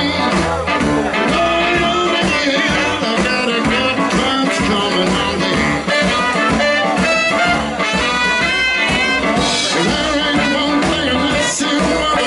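Live blues band playing an instrumental passage with a steady beat, horns to the fore.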